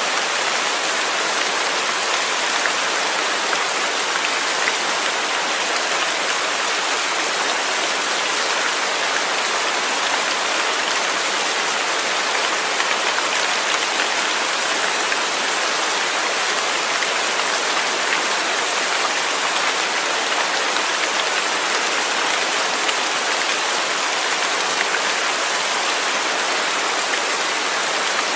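Steady rain falling, an even hiss of drops with fine scattered patters on a surface.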